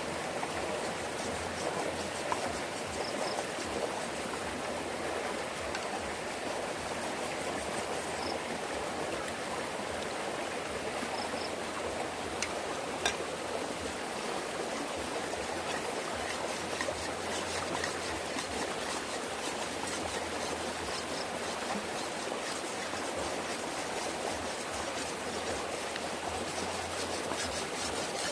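Stream water flowing steadily, with a few faint clicks.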